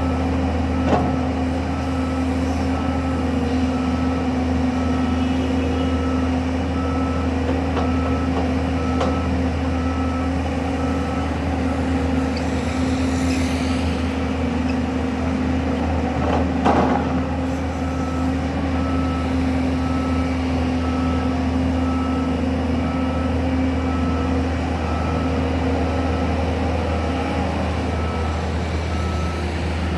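Heavy construction machinery running steadily with a low engine drone, and a reversing alarm beeping over and over, pausing for a few seconds mid-way. A short clank sounds about a second in and a louder one about 17 seconds in.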